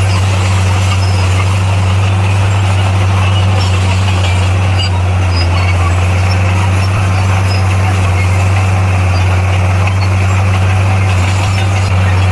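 Diesel engine of heavy earthmoving equipment running with a steady, unbroken low drone.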